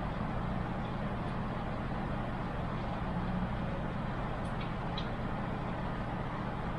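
Steady low hum and hiss of background noise, with a couple of faint small clicks about five seconds in from computer parts being handled.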